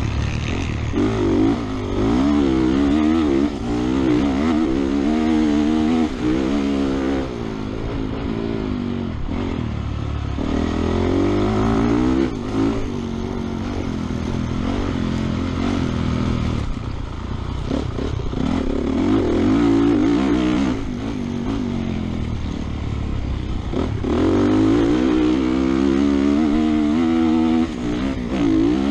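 Honda motocross bike's engine revving hard and backing off again and again, its pitch climbing and dropping in quick waves through the gears, heard from a helmet-mounted camera.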